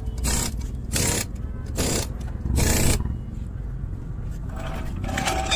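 A series of about four short, rough scraping strokes in the first three seconds, under a second apart, then quieter faint tones near the end.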